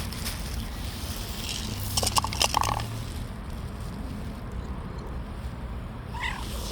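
A street cat crunching dry food in a short burst of clicks about two seconds in, then giving a brief rising-and-falling mew near the end, over a steady low rumble.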